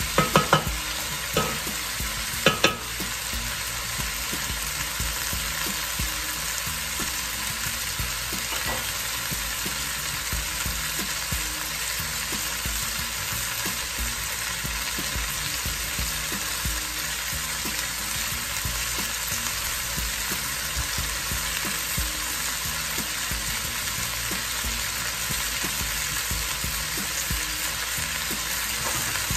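Cubed potatoes and kabocha squash sizzling in a curry-coated pot over high heat, a steady frying hiss. In the first three seconds a wooden spoon knocks against the pot about five times after stirring.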